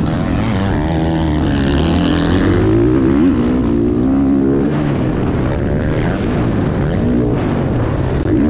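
Dirt bike engines revving, their pitch rising and falling as the throttle opens and closes.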